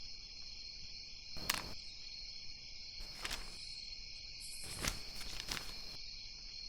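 Steady cricket chirring in the background, with a few short clicks about one and a half, three and five seconds in.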